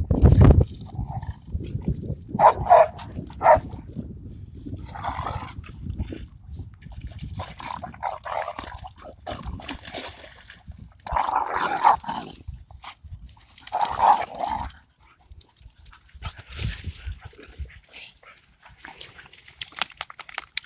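American Bully dogs barking and whining in short calls every one to three seconds as they play, with a low rumble at the very start.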